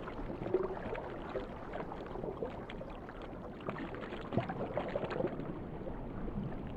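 Water moving and bubbling, a dense gurgling rush full of small crackles and pops.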